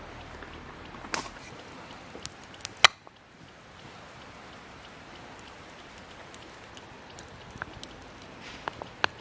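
Wood campfire crackling: a low steady hiss with scattered sharp pops and snaps, the loudest about three seconds in.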